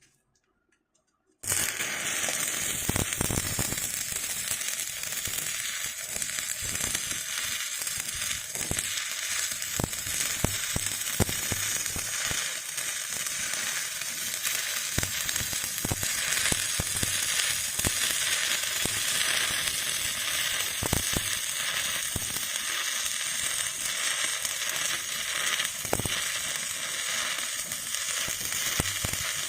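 Electric arc welding, crackling and sizzling steadily with frequent sharp pops; it starts abruptly about a second and a half in.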